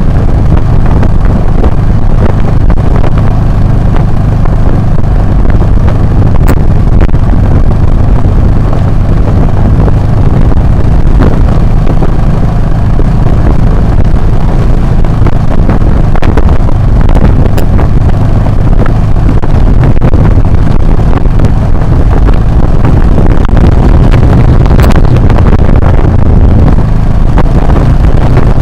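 Motorcycle engine running while riding off-road, with heavy wind buffeting on the action camera's microphone: a steady, very loud low rumble with a few sharp ticks.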